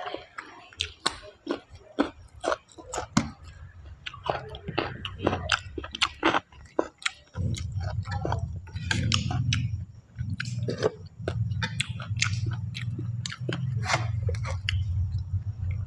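Close-miked chewing and biting of mushrooms: a steady run of irregular wet clicks and crunches from the mouth, with a low rumble underneath from about halfway.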